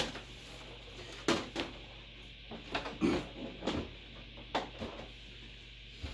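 A desktop computer case being handled and set in place: about five separate knocks and clunks, spread out, over a low steady background hum.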